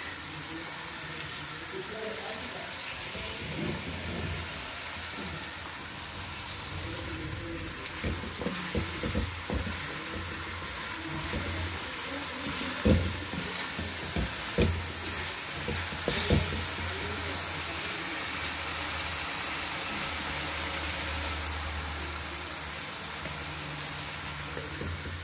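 Potatoes and fenugreek leaves sizzling as they fry in a metal pan, while a wooden spoon stirs them. The spoon scrapes and knocks against the pan in a run of sharp knocks from about a third of the way in to about two-thirds through.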